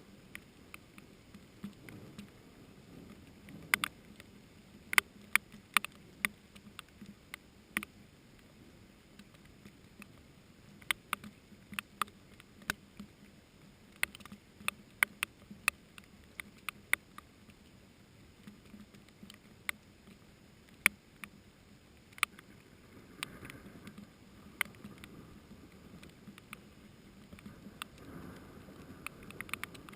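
Scattered raindrops in a thunderstorm, landing as sharp single ticks at irregular intervals over a faint steady hiss of rain.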